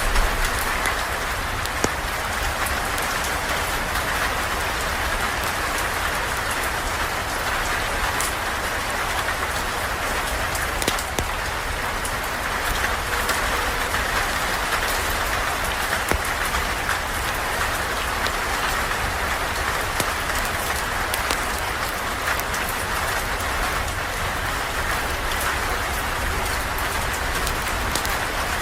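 Steady, even rain falling on a surface, with scattered faint sharp clicks through it.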